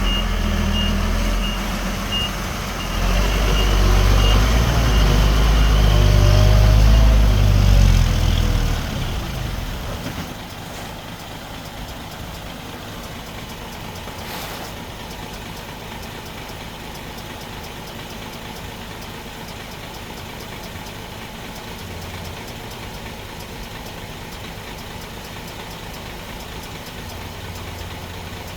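A heavy diesel engine works hard under load for several seconds, with a reversing beeper sounding at the start. The engine then drops back to a steady idle for the rest of the time.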